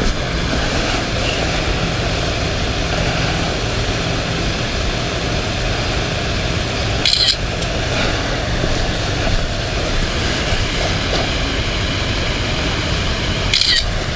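Yamaha Virago 250 V-twin motorcycle engine running steadily while riding, with road and wind noise. Two brief high-pitched squeaks cut through, one about halfway and one near the end.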